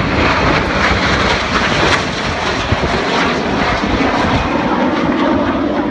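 Loud, steady roar of Red Arrows BAE Hawk T1 jets flying the display, their Adour turbofans running. A deeper tone grows stronger in the second half.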